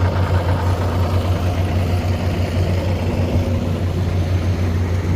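Ditch Witch mini skid steer's engine idling steadily, a loud, even low hum.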